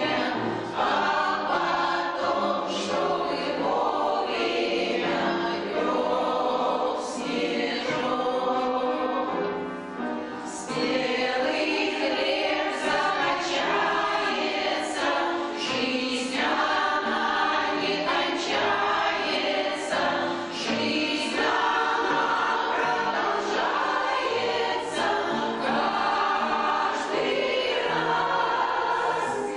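A choir of veterans singing a song, the voices continuing without a break except for a short dip between phrases about ten seconds in.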